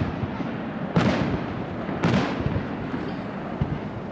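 Aerial firework shells booming in a display, two sharp bangs about a second apart, each trailing off in a fading rumble.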